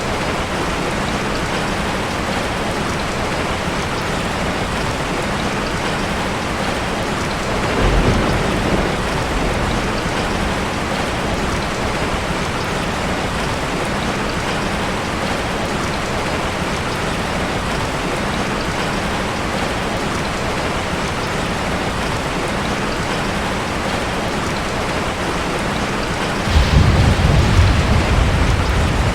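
Heavy rain falling steadily, with a short roll of thunder about eight seconds in and a louder, longer rumble of thunder near the end.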